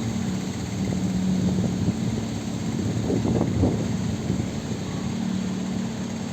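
Steady engine drone with a low hum, growing rougher for a moment about three seconds in.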